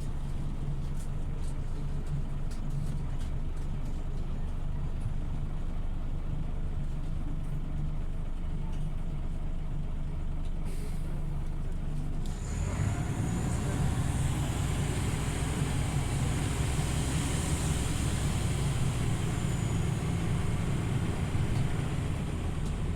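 Scania OmniLink CL94UB city bus engine heard from on board, running steadily with faint light ticks. About halfway through it suddenly grows louder and fuller, with a hiss and a thin high whine, as the bus pulls away and accelerates.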